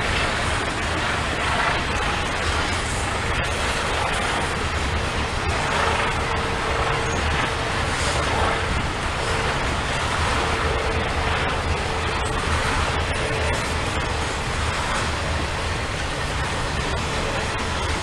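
Freight train rolling past at close range: a steady, loud rumble of steel wheels on rail, with a faint thin squeal coming and going through the middle.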